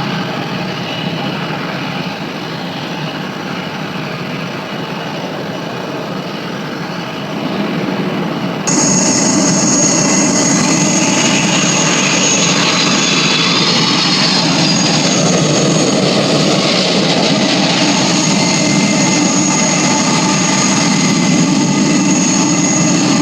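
Jet airliner engine noise: a steady rushing sound with a high whine. It jumps abruptly louder and brighter about nine seconds in.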